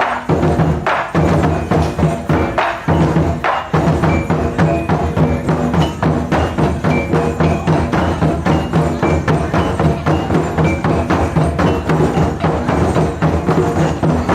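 Japanese taiko drum ensemble playing a fast, driving rhythm of dense strikes, with clicking wood accents and short high ringing notes over the deep drum tones.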